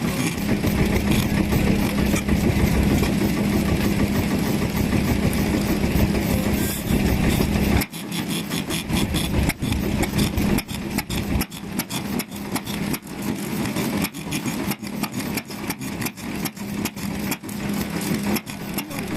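Vintage Japanese stationary petroleum engines running. About eight seconds in the sound changes abruptly from a dense, steady drone to a run of slower, evenly spaced exhaust beats.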